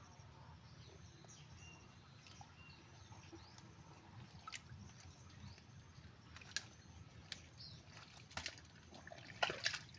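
Mangrove ambience: faint bird chirps, then a few sharp wet clicks and drips, scattered through the second half and loudest near the end.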